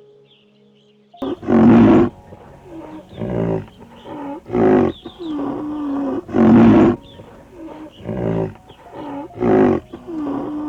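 An animal calling loudly over and over, about six strong calls roughly a second or two apart, with quieter calls in between.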